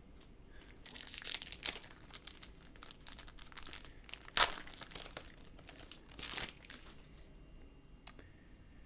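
Faint crinkling and rustling of a foil trading-card pack wrapper and cards being handled, as if a pack is being torn open, with the sharpest crackle about four and a half seconds in and another burst of rustling a couple of seconds later.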